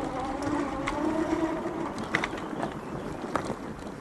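A motor running steadily with a slightly wavering pitch, with scattered clicks and knocks over it.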